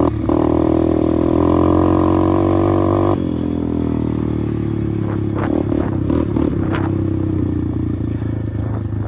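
A 125cc pit bike's single-cylinder engine running under throttle, then easing off suddenly a little after three seconds to a lower, quieter steady run. A few short clicks are heard near the middle.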